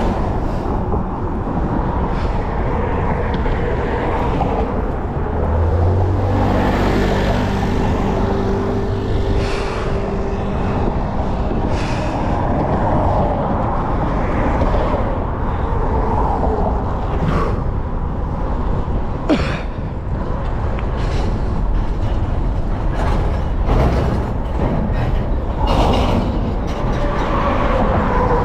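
Road traffic: steady noise of passing vehicles, with a heavy vehicle's engine rumble from about five to nine seconds in.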